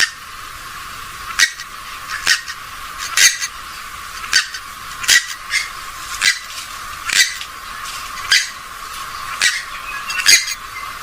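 Short, sharp calls from a swamphen or moorhen type rail, repeated about once a second and sometimes in quick pairs, over a faint hiss.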